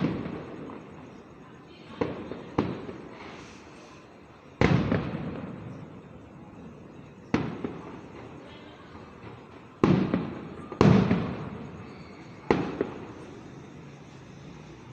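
Fireworks going off: about eight sharp bangs at irregular intervals, each trailing off in a fading rumble. The loudest come just under a third of the way in and again about two-thirds through.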